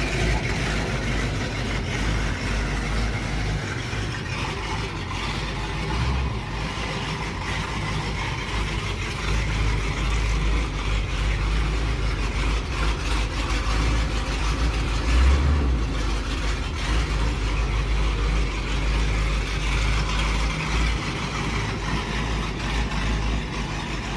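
1969 Dodge D100's 413 cubic-inch V8, fitted with a big camshaft, running steadily at idle. Its low note swells briefly about six seconds in and again about fifteen seconds in.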